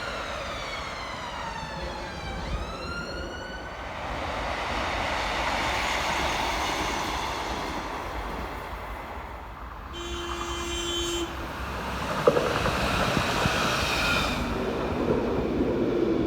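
Nottingham tram's electric traction motors whining, the pitch sliding down and then climbing again within the first few seconds, followed by the steady rumble of the tram rolling along the track. About ten seconds in, a short steady horn-like tone lasts about a second, and a sharp click follows about two seconds later.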